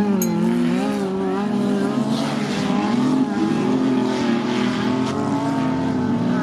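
Several banger race cars' engines running together, their pitches rising and falling as they rev and ease off.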